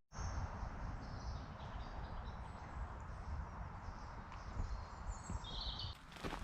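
Outdoor riverside ambience: a steady rushing noise with wind buffeting the microphone, and a short high bird chirp about five and a half seconds in.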